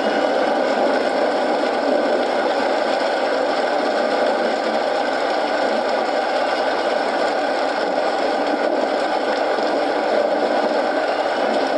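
Steady rain mixed with a crackling wood fire in a fireplace, making an even, unbroken hiss.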